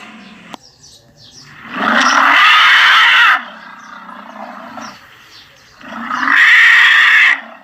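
Elephant calling twice: two loud, harsh calls of about a second and a half each, the first a couple of seconds in and the second near the end, each stopping abruptly, with a quieter low rumble between them.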